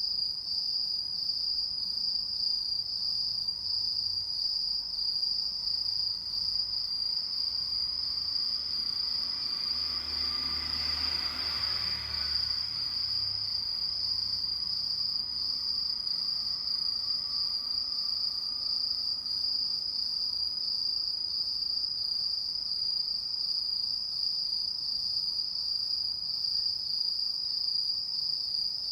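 A chorus of autumn insects singing: one steady, high-pitched trill with a slight pulse.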